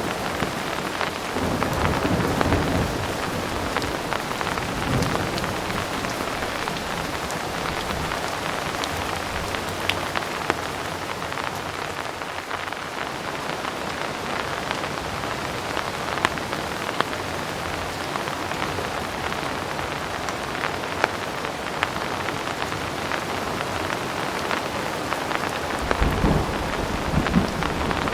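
Heavy rain falling steadily, with scattered sharp drip taps. Low rumbles of distant thunder swell in the first few seconds and again near the end.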